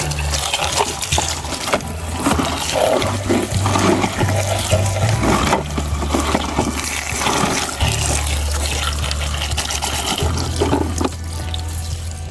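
Water running and splashing as muddy toy vehicles are rinsed, over background music with a bass line.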